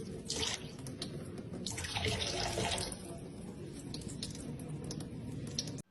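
Water running and splashing, swelling louder briefly about half a second in and again around two seconds in.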